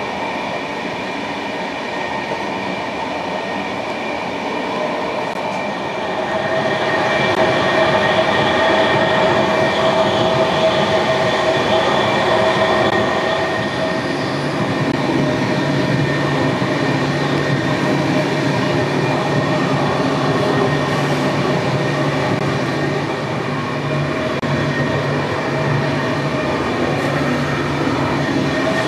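Passenger train running, with a steady whine of several held tones over rail noise. It grows louder about six seconds in, and a lower hum joins it about halfway through.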